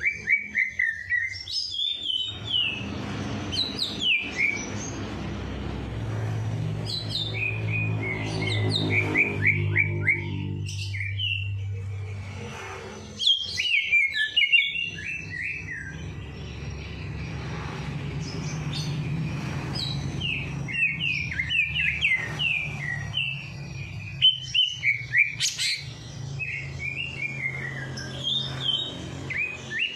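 Songbirds chirping in quick runs of short, sliding notes, with brief lulls, over a low steady hum.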